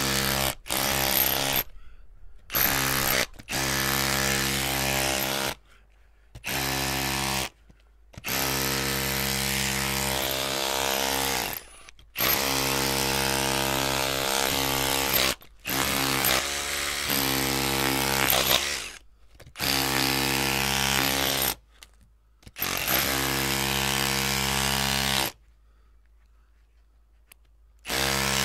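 Electric drill run in about ten abrupt bursts, each from under a second to a few seconds long, with a steady pitched motor hum and short gaps between. A longer pause of about three seconds near the end comes before one last short burst.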